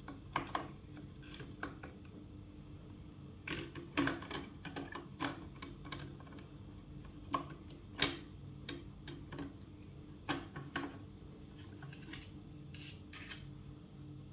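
Irregular sharp clicks and clacks of IBM Model M keyboard parts being worked on, in scattered clusters over a steady low hum.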